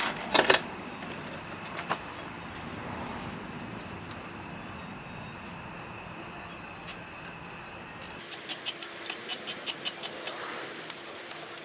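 Insects chirring steadily at a high pitch, with a few sharp clicks about half a second in. About eight seconds in the chirring abruptly jumps higher, and faint quick ticks follow.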